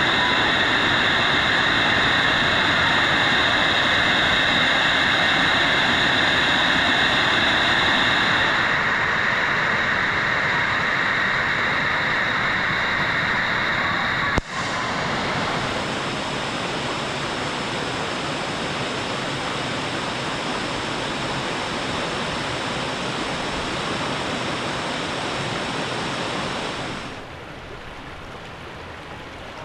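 Waterfall: a steady rush of falling water. The sound changes abruptly about halfway through and drops to a quieter rush a few seconds before the end.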